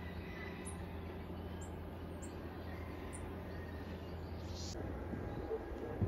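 A few faint, short bird chirps over a steady low background rumble.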